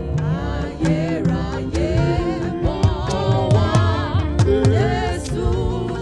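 Gospel music: singing voices over a band with bass and drums.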